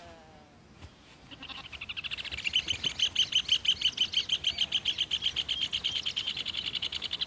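Rufous hornero (red ovenbird) calling: a fast, even run of high, sharp notes that begins about a second and a half in, swells to full loudness within a second and carries on steadily, the excited call the female gives as her mate arrives to inspect the nest site.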